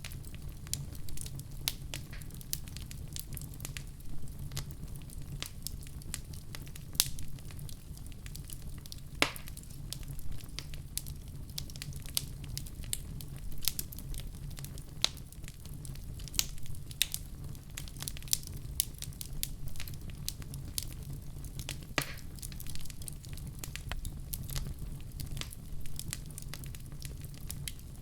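Wood fire burning with a steady low rumble of flames, broken by irregular sharp crackles and the odd louder pop.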